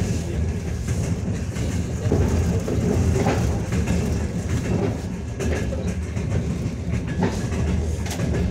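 Passenger train running at speed, heard from inside the carriage: a steady low rumble of wheels on rails with irregular sharp clacks over the rail joints.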